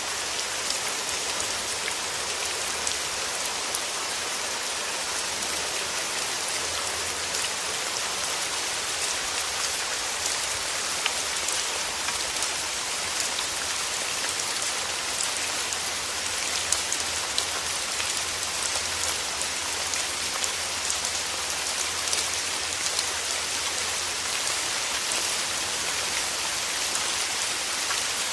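Steady rain: a dense, even hiss of falling drops with scattered sharper drop ticks.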